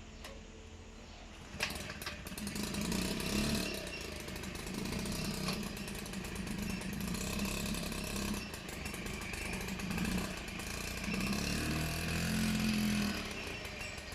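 Restored 1982 Honda Express NC50's 49 cc two-stroke single-cylinder engine starting about a second and a half in, then running with its revs rising and falling.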